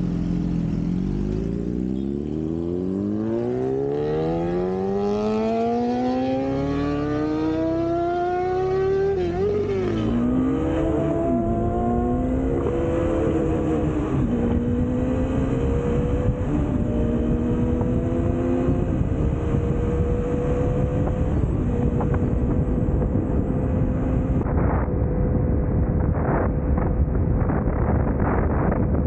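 Sport motorcycle engine accelerating hard, its pitch rising steadily for about nine seconds. The pitch then drops in steps at gear changes and settles into a steady cruising drone. Wind buffeting and short knocks on the microphone come in near the end.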